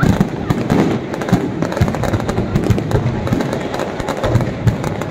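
Fireworks and firecrackers going off in a dense, continuous barrage of sharp cracks and pops, many to the second, with deeper thuds among them.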